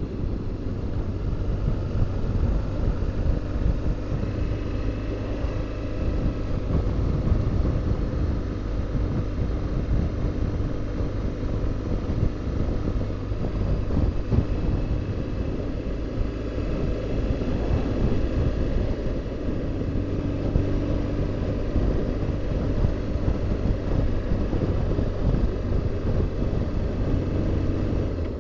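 BMW R1200GS Adventure's boxer-twin engine running steadily at cruising speed, with road noise.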